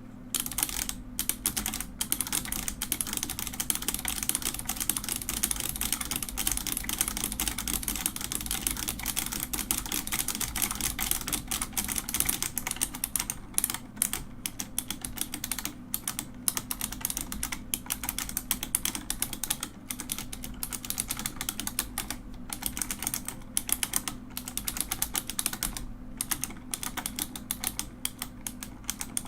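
Rapid, continuous typing on a mechanical keyboard, dense key clicks and clacks with a few brief pauses.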